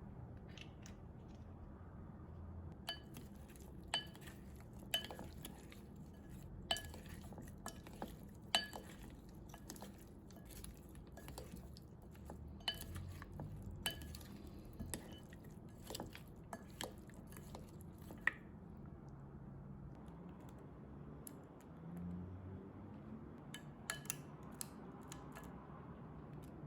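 Faint, irregular clinks and taps of hard objects, many with a brief ringing note. They come thick and fast until about two-thirds of the way through, then a few more near the end.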